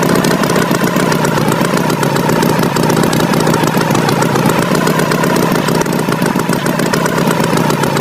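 Engine running steadily at idle, a tractor engine sound effect, with a slight waver in its pitch.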